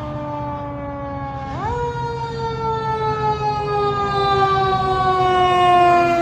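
Fire truck siren wailing: the pitch drifts slowly down, jumps sharply back up about a second and a half in, then slides slowly down again, growing louder toward the end. A low steady rumble runs underneath.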